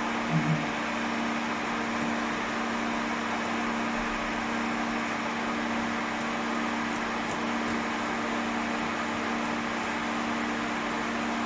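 Pet hair dryer blowing steadily: an even rush of air over a constant motor hum, drying a cat's fur.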